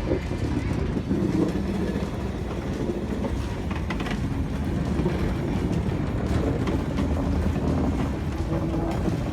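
A train running along the track: a steady rumble with occasional clicks of the wheels over the rails.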